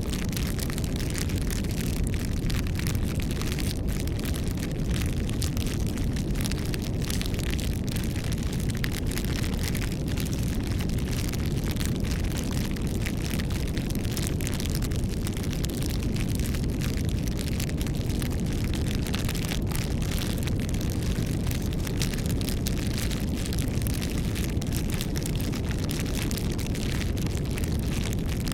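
Campfire burning steadily, with a low rumble of flame and frequent small crackles and pops from the burning wood.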